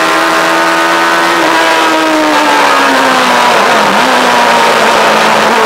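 Yamaha R1 inline-four motorcycle engine in a car, heard from the cockpit under way: the engine note holds steady, then falls over a couple of seconds as the revs drop, with a brief dip and recovery about four seconds in before settling at a lower, steady pitch.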